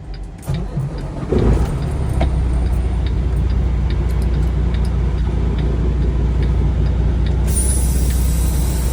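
Diesel semi-truck engine running with a loud, steady low drone that sets in about a second and a half in.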